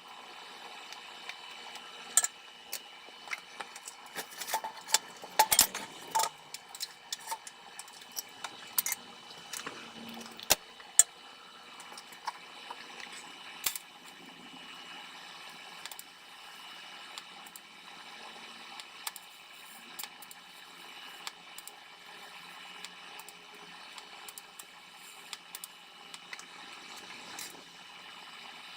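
DC TIG welding arc running steadily with a hiss and a high whine, while silicon bronze filler rod is fed into a rusty steel tailpipe joint; irregular crackles and pops run through it, busiest about five seconds in.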